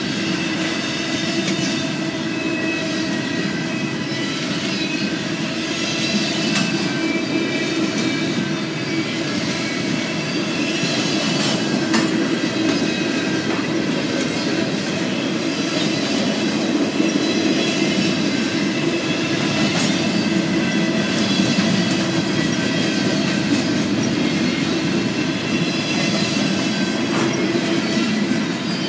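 Freight train rolling past: a steady rumble of the cars' wheels on the rails, with a faint high wheel squeal and scattered sharp clicks.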